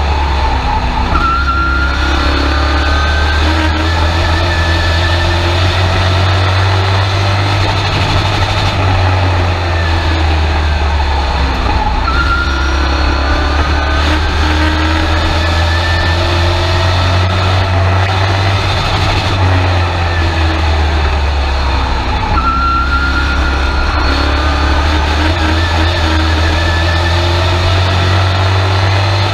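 Race truck's engine heard from inside the cab over a constant low rumble. The revs climb for several seconds and then ease off, repeating about every ten seconds as the truck accelerates down each straight and lifts for the turns.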